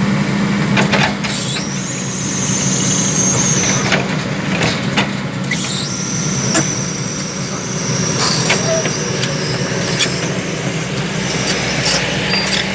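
Heavy vehicle running with a steady low drone, with a high-pitched squeal twice and scattered short knocks.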